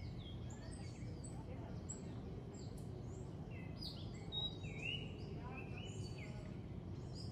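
Several birds calling at once: many short whistled notes, most sliding down in pitch, overlapping one another, over a low steady background rush.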